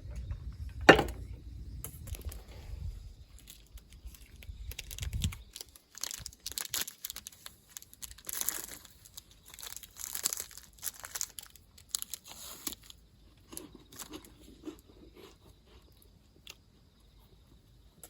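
Crinkling and rustling, like something being handled or unwrapped, in a dense run of crackly bursts, after a sharp knock about a second in.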